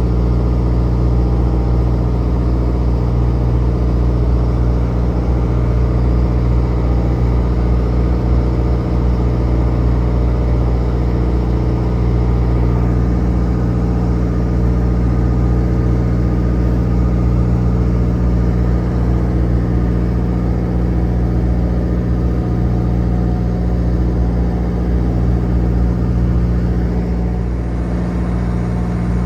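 Trawler's diesel engine running steadily with a constant low drone, easing slightly near the end.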